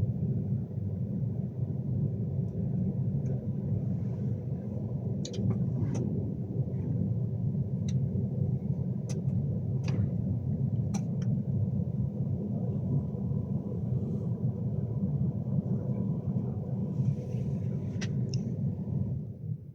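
Steady low rumble of a Class 390 Pendolino train running, heard inside the carriage, with scattered sharp clicks and ticks. The rumble drops away suddenly near the end.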